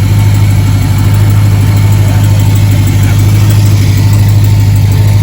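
A car engine idling steadily with a constant low drone.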